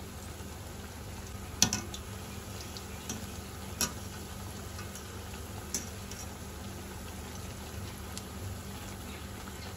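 Gram-flour pakoras of potato, spinach and onion sizzling steadily in hot oil in a karahi on a low flame, browning as they fry. Three sharp clicks of a wire skimmer against the pan, about two seconds apart, cut through the sizzle.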